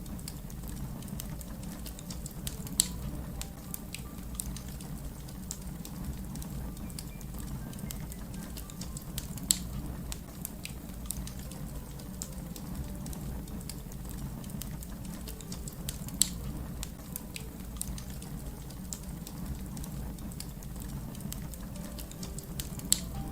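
Wood fire burning with a steady low rumble and a constant scatter of small crackles, and four sharp, loud pops spread evenly across it.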